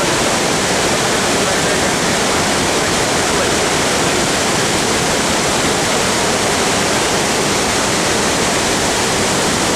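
A waterfall in full monsoon flow, a loud, steady, unbroken rush of falling water.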